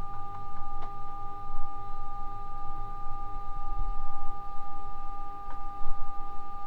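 3D printer's steady electrical whine: two high tones held constant, over a low rumble with a couple of faint clicks.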